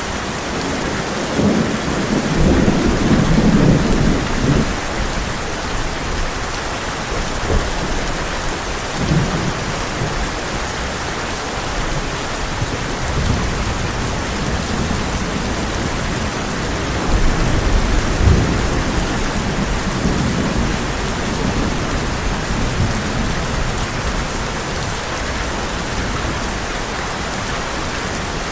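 Heavy rain drumming steadily on a tin roof, with low rolls of thunder swelling several times, the strongest a few seconds in and again past the middle.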